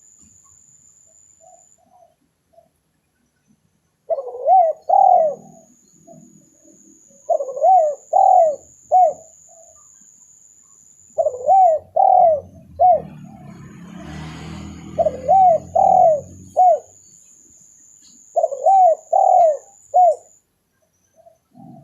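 Spotted dove (tekukur) cooing: five phrases of about three notes each, repeating roughly every three and a half seconds, a lure call. A faint steady high whine runs underneath, and a brief rustling noise comes around the middle.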